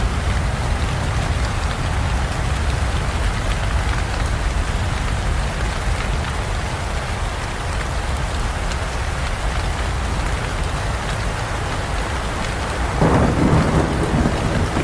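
Steady rain with low rumbling thunder underneath, and a louder peal of thunder near the end.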